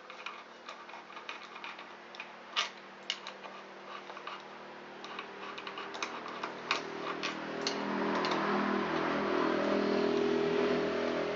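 Small metal parts clicking and clinking as loose engine bolts are handled on a workbench, in scattered sharp ticks. About eight seconds in, a steady engine-like hum rises underneath and carries on.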